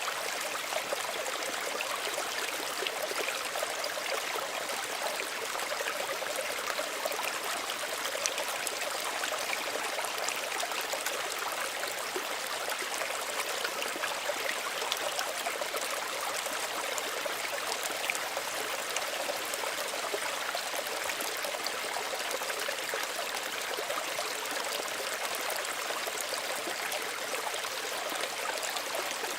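Small stream of running water, a steady light babble and trickle with fine splashes, little low rumble.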